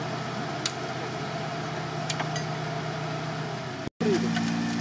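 UAZ Patriot engine idling steadily, with a few sharp metallic clicks from a hi-lift jack being worked at the front bumper. About four seconds in the sound cuts out briefly and comes back with the engine louder.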